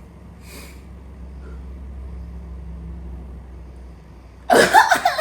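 A woman's sudden loud cough and gag about four and a half seconds in, as a honey-flavoured seed drink goes down badly, the seeds catching in her throat.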